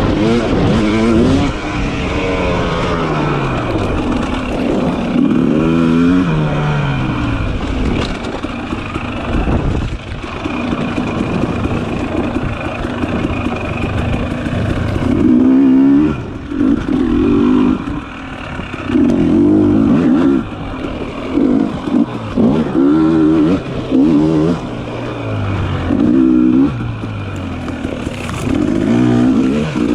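Dirt bike engine revving up and down with the throttle as it is ridden, its pitch rising and falling repeatedly, with short, choppy bursts of throttle in the second half.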